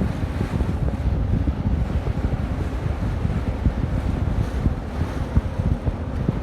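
Wind buffeting the microphone on a moving boat: a dense, gusty rumble that rises and falls unevenly, with the rush of water beneath it.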